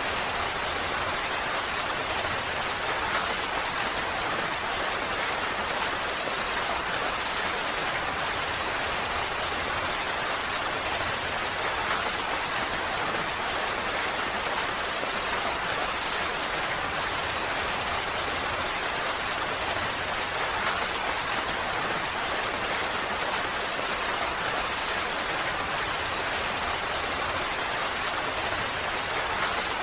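Steady rain falling, an even hiss of many drops with faint individual patters, unchanging throughout.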